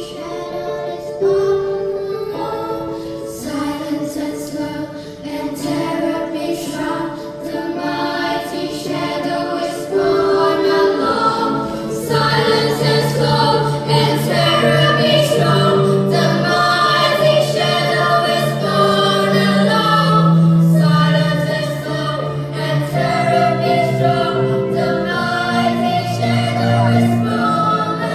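Small children's choir group singing a song in parts, with sustained notes; the singing grows louder and fuller about ten seconds in.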